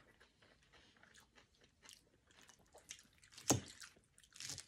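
Quiet close-miked chewing and biting of food, with many small wet mouth clicks and smacks and one sharper click about three and a half seconds in.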